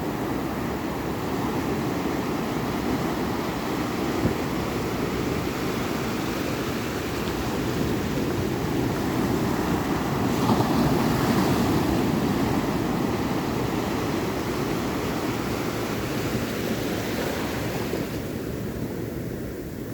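Ocean surf: a continuous rush of waves washing in, swelling louder about halfway through as a wave breaks, then easing off near the end.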